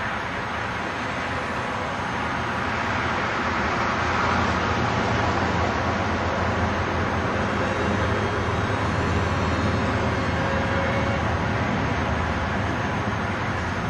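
Electric-powered RC combat flying wing in flight: the steady drone of its motor and propeller, growing a little louder about four seconds in.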